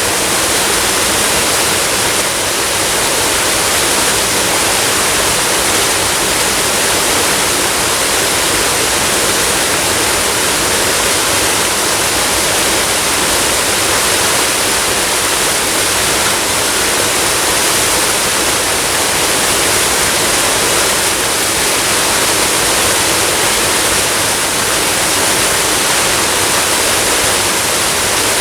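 Waterfall and flowing water rushing steadily, a constant even hiss without breaks.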